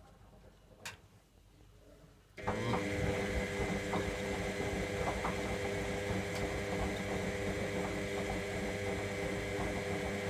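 Electra AWF683 washing machine starting up after a quiet pause about two seconds in, its motor then running with a steady hum and light ticking and clicking.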